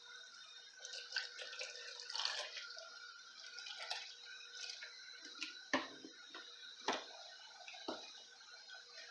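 Apple cider vinegar poured into a plastic bottle packed with rosemary sprigs, a soft splashing trickle, followed by a few sharp knocks of the bottle being handled.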